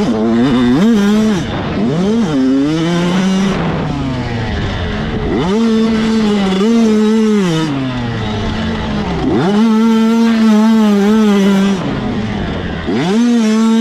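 85cc two-stroke motocross bikes racing, their engines screaming up to high revs and holding for a second or two, then backing off, about four times over.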